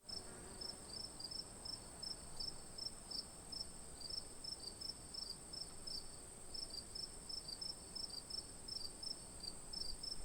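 Insects chirping: a steady high trill with short, evenly repeated chirps, several a second.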